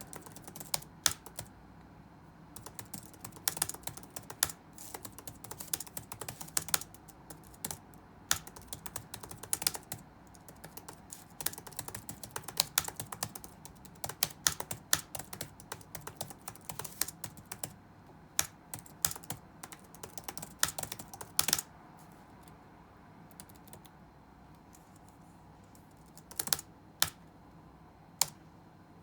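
Touch-typing on a computer keyboard: a fast, steady run of keystrokes for about twenty seconds, then a pause and a few single keystrokes near the end.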